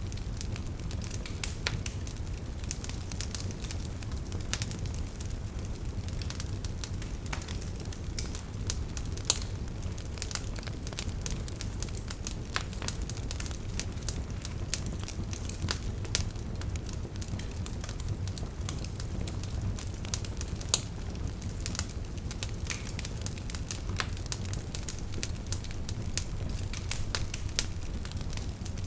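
Wood campfire burning, crackling with dense, irregular snaps and pops. A couple of louder pops stand out, about nine seconds in and about twenty-one seconds in.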